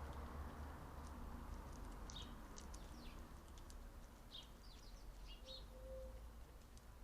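Small songbirds chirping in two brief flurries of short, high, falling notes, over a faint steady low outdoor hum.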